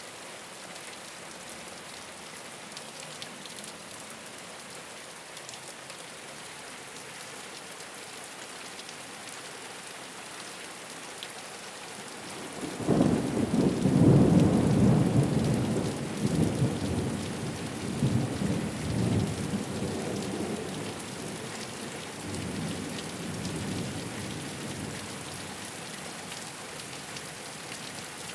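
Steady rain falling on a rooftop. About thirteen seconds in, a loud rumble of thunder breaks in and rolls on in several waves, fading away over about twelve seconds.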